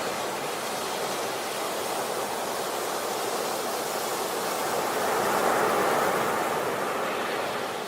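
Sea waves washing on a beach: a steady rush of surf that swells to a peak about two-thirds through and then eases off.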